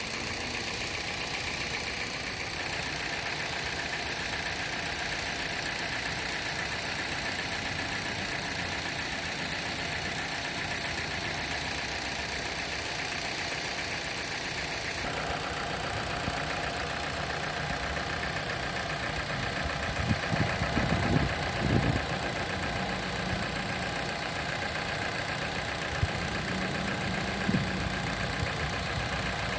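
2009 Dodge Caliber's four-cylinder engine idling steadily, its sound shifting abruptly twice, a few seconds in and about halfway through.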